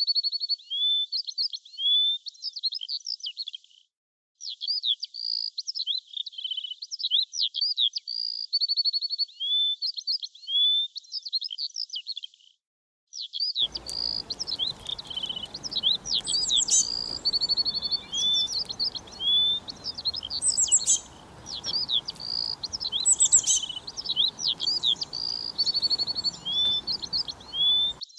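Songbirds chirping busily in quick downward whistles and short trills. The sound cuts out briefly twice. After about 14 s, a second layer with faint background hiss and higher-pitched chirps joins in.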